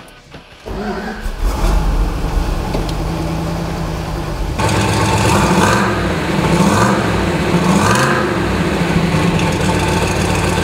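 1970 Plymouth AAR 'Cuda's 340 V8 with three two-barrel carburetors (the "six-pack") and side-exit exhaust starts suddenly about a second in and settles into a steady idle. Around the middle the throttle is blipped three times, each rev rising and falling, and then it idles again.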